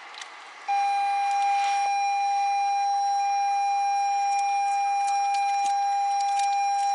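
A 2020 Toyota Corolla's dashboard warning chime, here a steady unbroken tone that comes on about a second in and holds, with a few light clicks of wire handling.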